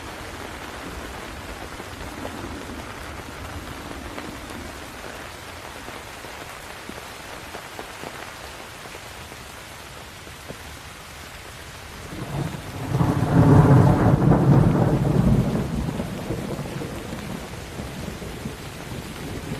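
Steady rain falling, with a loud rumble of thunder that builds a little past halfway and slowly dies away.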